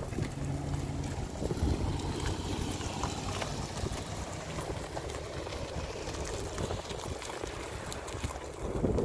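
2010 Ford Focus's 2.0-litre four-cylinder engine running as the car drives slowly past on a dirt lot.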